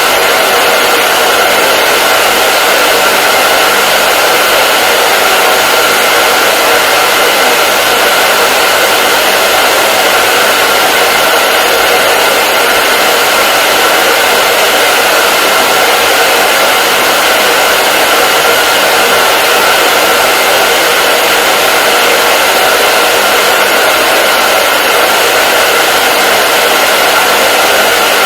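Hair dryer blowing steadily: a constant rushing hiss with a faint steady whine from its motor.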